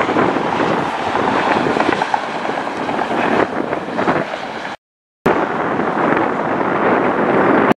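Loud roar of a jet airliner's engines, mixed with wind buffeting the microphone. The sound cuts out completely for about half a second a little before the five-second mark, then resumes.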